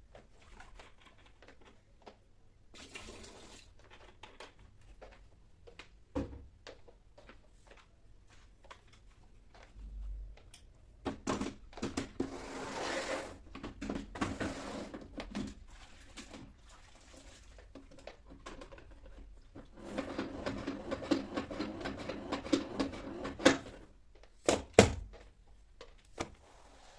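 Household cleaning sounds: scattered clicks and knocks of objects being handled, with two stretches of rushing noise and a low hum, each lasting a few seconds.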